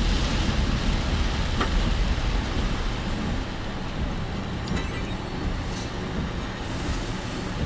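Car driving on a wet road in typhoon rain and wind, heard from inside the car: a steady low rumble of tyres and engine with a hiss of spray, a little louder in the first few seconds.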